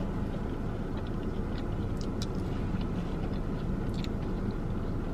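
Chewing a bite of fried chicken finger, with a few faint mouth clicks and crunches about two and four seconds in, over the steady low hum of a running car.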